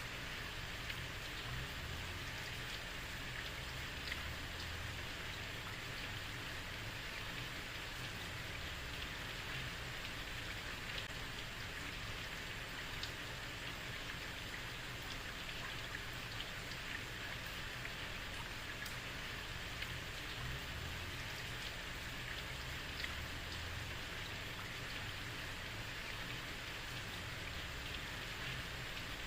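Steady heavy rain falling on a street, a constant hiss with scattered drop ticks and a low rumble underneath.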